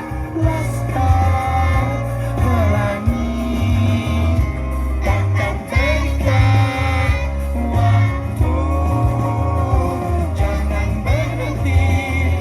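Children's choir singing over instrumental accompaniment with a strong bass line.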